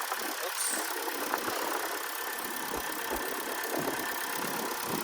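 2011 Chevy Cruze engine idling steadily, shaking, which the owner takes for a misfire, more likely from a spark plug or coil pack.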